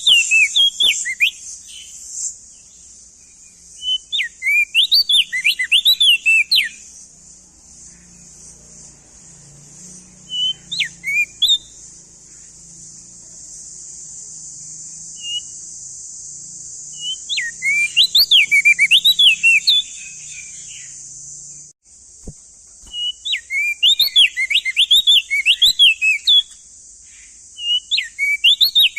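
Opior jambul (crested white-eye) singing: repeated bursts of quick, rising and falling whistled notes, each burst a second or two long with a few seconds' gap between, over a steady high hiss.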